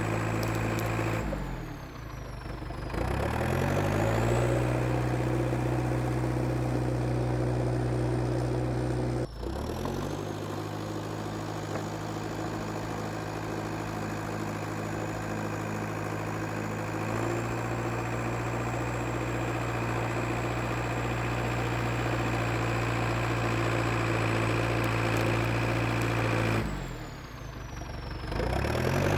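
International Harvester TD8E crawler bulldozer's diesel engine running steadily while working, with a high whine that follows the engine speed. The revs drop and climb back twice, near the start and near the end, with a brief dip about a third of the way through.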